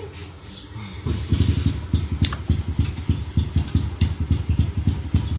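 110cc motorcycle engine running, getting much louder about a second in and then going with a fast, uneven beat.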